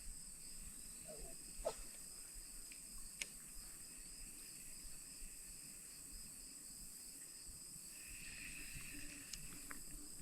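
A faint chorus of insects keeps up a steady high-pitched drone in several layered tones. A few faint sharp clicks come about two and three seconds in and again near the end.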